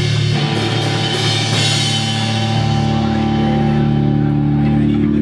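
Live pop punk band's amplified guitars and drums warming up between songs: held chords ring out steadily over a cymbal crash that fades away over the first couple of seconds, and the low notes change near the end.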